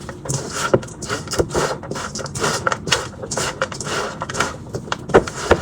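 Spoon stirring chatpate, a dry mix of puffed rice, spices and chopped vegetables, in a bowl: an irregular run of clicks, clatter and scraping.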